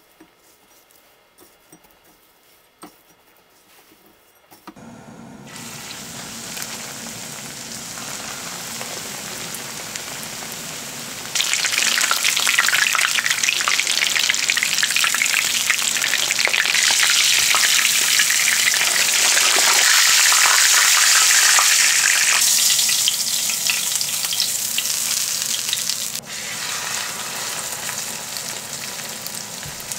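Breaded cheese tonkatsu cutlets shallow-frying in oil in a frying pan: a steady sizzle that starts about five seconds in and gets much louder a few seconds later. Before it, only a few faint clicks.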